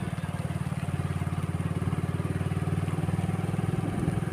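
Motorcycle engine running at a steady speed, a fast, even pulse of exhaust beats.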